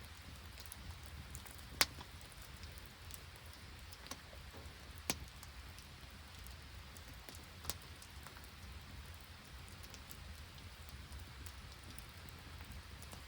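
Rain falling steadily, with a few sharp clicks a second or more apart, the loudest about two seconds in.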